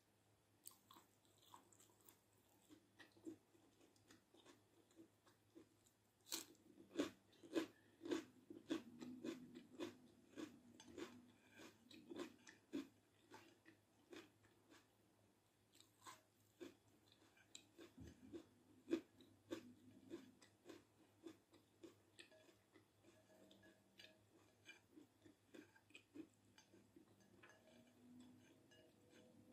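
Close-miked eating: crisp crunching bites and chewing of raw red bell pepper, densest about six to thirteen seconds in, then softer chewing and small clicks.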